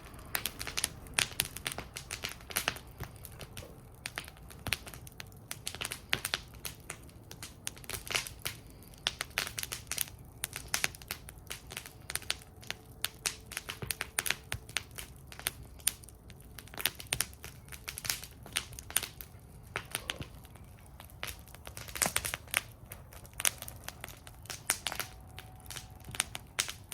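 Wood fire burning in a fire bowl, crackling: irregular sharp snaps and pops, several a second, over a low steady rumble of the flames.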